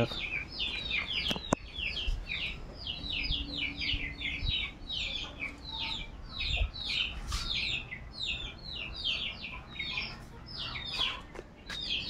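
Birds chirping in a steady run of short, high, falling notes, several a second, with a single sharp click about one and a half seconds in.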